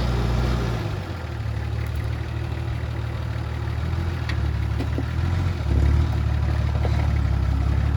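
Four-wheel-drive vehicle's engine running at low revs as it crawls over rocks, with the engine note rising and getting louder about six seconds in. A few faint knocks sound over it.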